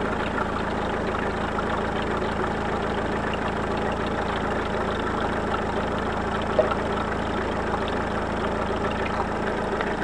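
Car engine idling steadily when warm, with a light fine rattle that the owner puts down to the hydraulic lifters. One sharp click sounds about two-thirds of the way through.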